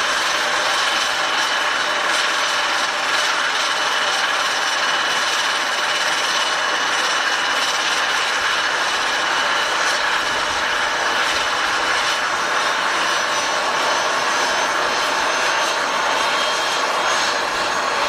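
Airliner engines running steadily: an even rush with a thin, high-pitched whine over it, holding level without rising or falling.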